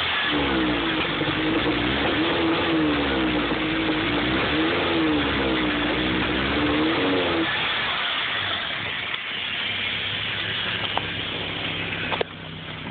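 Car engine running with its speed rising and falling unevenly for about seven seconds, then settling to a steadier, lower run. This is the sputter that a new O2 sensor, fuel filter and fuel pump have not cured; the car is throwing an oxygen sensor code.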